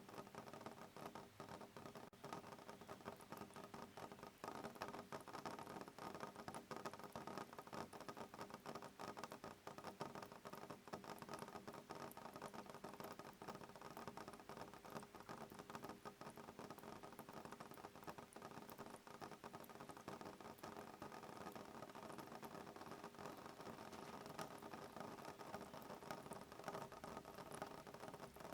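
Soft rain pattering on a window pane: a faint, steady, dense ticking of small drops, with no thunder.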